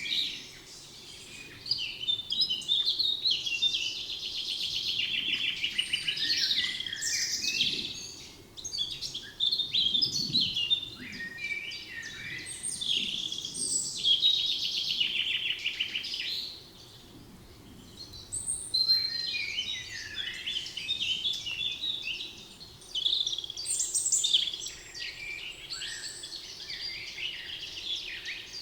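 Several songbirds singing over one another with chirps and fast trills, in phrases a few seconds long broken by short lulls.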